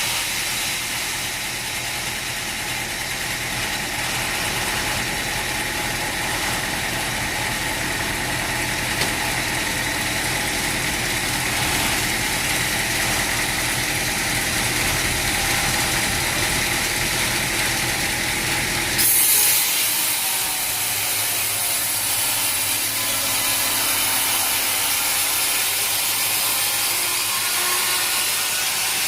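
Steady mechanical running noise of sawmill machinery with a low rumble under it. About two-thirds of the way through the sound changes abruptly: the rumble drops away and a brighter hiss takes over.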